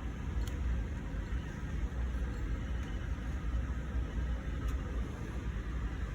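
Harbor Freight 9x20 benchtop lathe running with a steady low rumble and two faint ticks. The odd noise comes from the lathe's drive belt.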